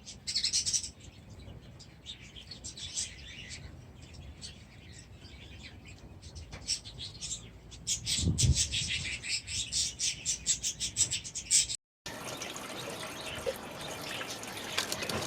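Small aviary birds chirping and twittering, many short high calls overlapping and growing busier; about twelve seconds in the sound cuts off abruptly and goes on with a steadier hiss under the chirping.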